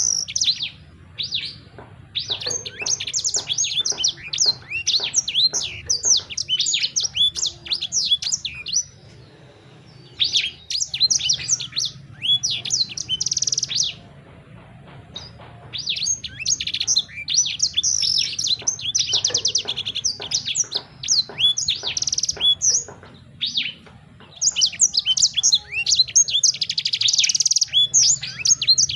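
A small songbird singing in long bouts of rapid, high chirps and trills, with pauses of a second or two between bouts. A faint steady low hum lies under it.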